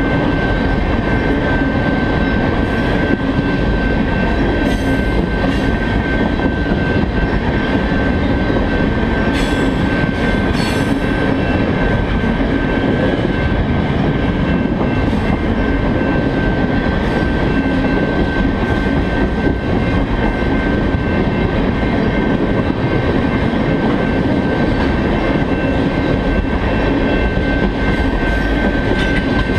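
Freight train's tank cars rolling past close by: a steady rumble of steel wheels on rail, with a constant high-pitched wheel squeal throughout and a few brief sharper screeches about ten seconds in.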